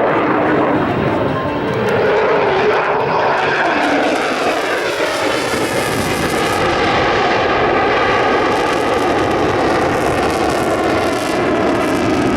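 Aircraft engines of a military flyby passing the crowd, a steady loud noise whose pitch sweeps and slides as the aircraft go past.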